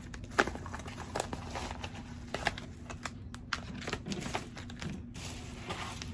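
Packaging being handled and opened: irregular crinkling, rustling and sharp crackles.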